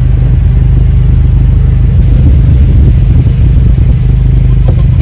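Jeep Wrangler JL running: a steady, loud low drone of engine and exhaust with road rumble.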